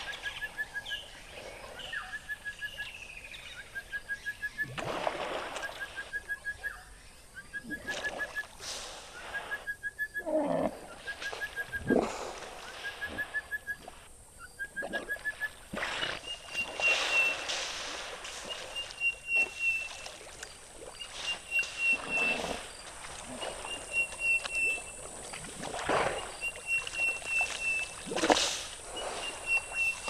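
A bird repeating a short, pulsed call about once every second and a half. About halfway through, a higher-pitched call takes over at the same pace. Brief noisy calls and rustles come and go behind it.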